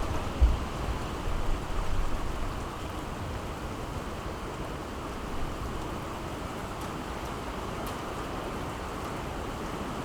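Steady rain falling, an even hiss. A low rumble of thunder dies away over the first two seconds or so.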